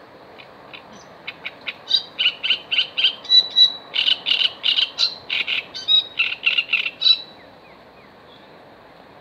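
A songbird singing one long phrase: a few scattered ticks that build into a fast, even run of sharp chattering notes, about four a second, stopping abruptly after about seven seconds.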